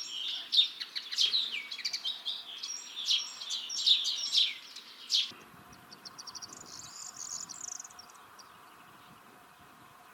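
Common linnet singing a fast, varied twittering song for about the first five seconds. Then a corn bunting gives one short, high, jangling trill lasting just over a second.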